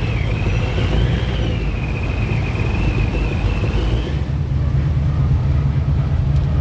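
Car engines rumbling steadily as cars cruise by. A thin, high wavering tone sounds over it and stops about four seconds in.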